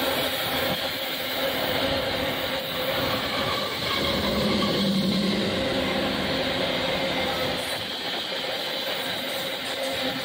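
Loaded iron-ore gondola wagons of a long freight train rolling past close by, steel wheels rumbling and clattering over the rails with a steady whine running through it.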